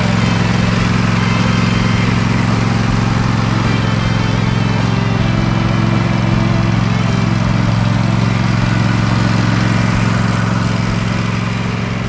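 Cub Cadet riding mower's engine running steadily at a constant speed.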